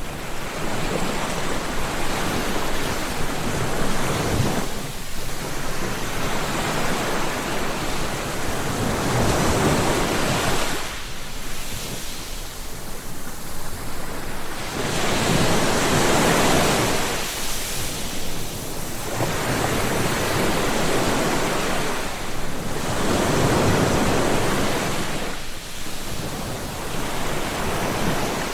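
Ocean waves breaking on the shore, a continuous wash of surf that swells and eases every few seconds as each wave comes in.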